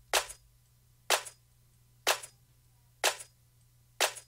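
Electronic drum-machine clap sample looping in a DAW, five hits at about one per second, each with a short reverb tail from the processing being applied. A faint steady low hum sits under it.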